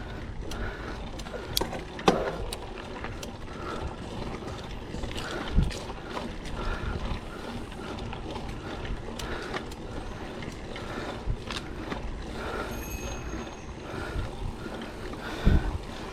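Mountain bike's rear freehub clicking steadily as the bike is pushed along on foot, with a few louder knocks.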